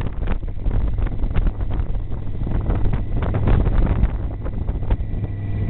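Heavy wind buffeting the microphone over the steady drone of a motorcycle engine under way.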